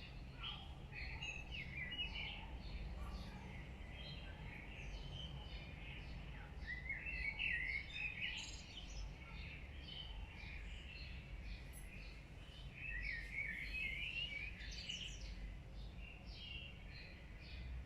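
Several birds chirping and singing over a steady low rumble, with busier runs of warbling about seven seconds in and again around fourteen seconds.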